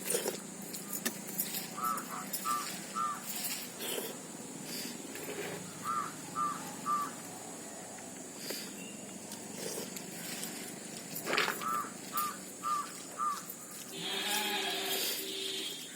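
Close eating sounds of watered rice being eaten, with scattered short clicks and smacks. A bird calls in quick sets of three or four chirps, three times. A goat bleats near the end.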